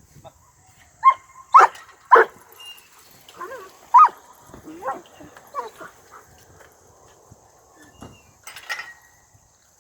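Dogs barking: a string of short, sharp barks, loudest in the first few seconds and thinning out by about six seconds in.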